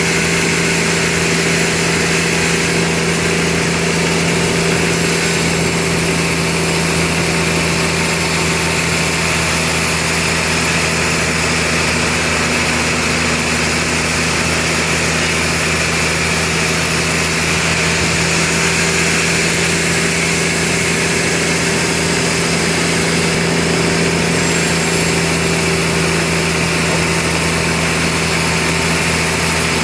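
Sawmill machinery running steadily, a continuous engine-like hum with a constant low drone that does not change.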